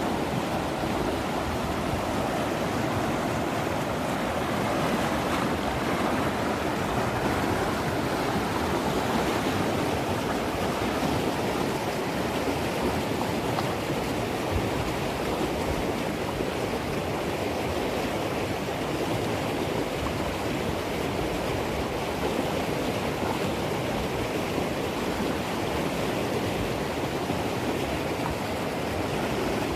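The East Fork of the San Gabriel River in flood after heavy rain: fast, swollen water rushing in a steady, unbroken roar.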